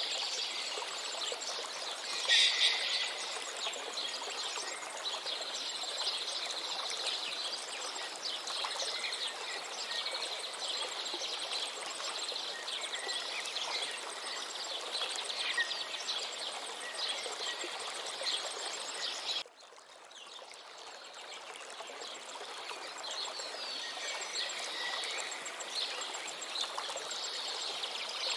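Many birds chirping and singing over the steady rush of a river, with one louder call about two seconds in. The whole sound drops away suddenly about two-thirds of the way through and swells back over several seconds.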